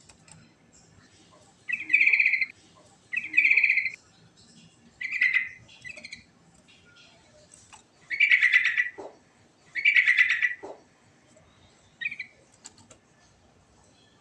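Yellow-vented bulbul (trucukan) singing: five loud song phrases, each just under a second, spaced one to three seconds apart, with a few shorter notes between.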